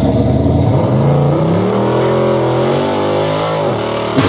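Twin-turbo drag-race engine in a box Chevy revving. Its pitch climbs about a second in, holds, then drops back near the end, with a single sharp click just before it settles.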